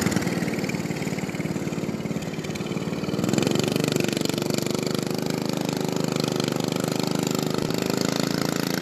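Predator 212cc single-cylinder four-stroke engine of a mini bike running, its pitch dropping off early and then climbing again about three seconds in before holding steady.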